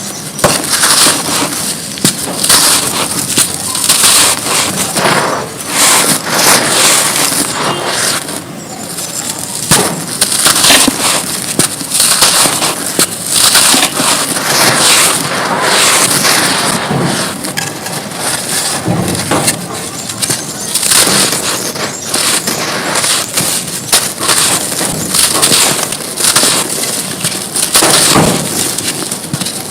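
Chunks of mud being crumbled and crushed: a dense gritty crunching full of small snaps, coming in repeated squeezes a second or two apart.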